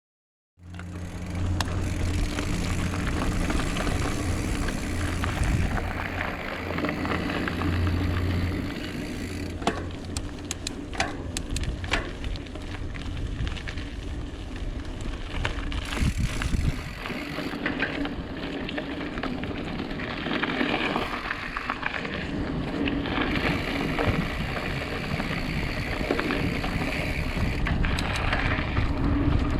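Mountain bike ridden over rough ground: continuous tyre rumble and wind noise, with sharp rattles and knocks from the bike, and a steady low hum for roughly the first nine seconds.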